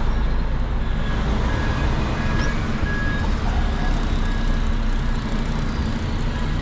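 Steady engine and road noise of a truck being driven, heard from inside the cab.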